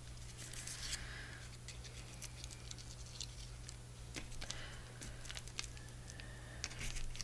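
Faint paper handling: soft rustles and light scattered taps and clicks as paper cutouts are picked up and set down on a tabletop.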